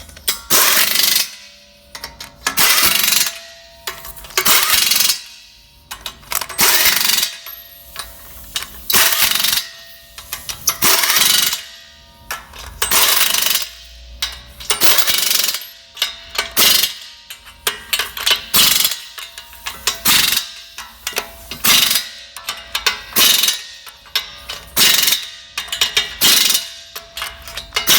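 Impact wrench hammering nuts tight, run in about a dozen short bursts roughly two seconds apart.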